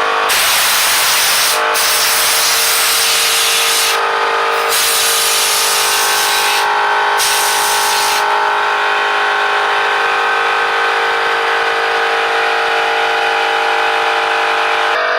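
Compressed air hissing hard from a blow nozzle through air conditioner coils, with a few short let-ups, over the steady drone of a Ridgid 18V brushless one-gallon air compressor running.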